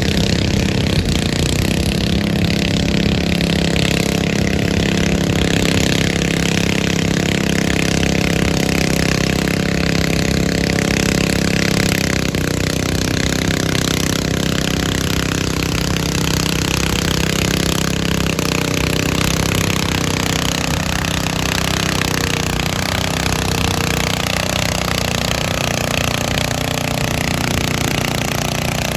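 Garden tractor engine running steadily under load during a tractor pull; its pitch drops slightly about twelve seconds in.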